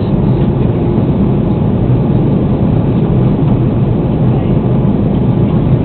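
Airbus A330 cabin noise heard from inside the cabin: a loud, steady rumble of engines and airflow.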